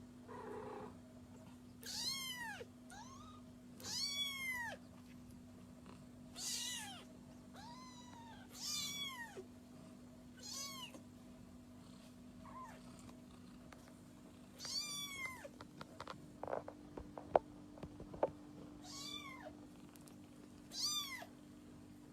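Kitten meowing over and over, a short rise-and-fall meow about every two seconds, some louder and some faint. A few sharp clicks or taps come in about two-thirds of the way through.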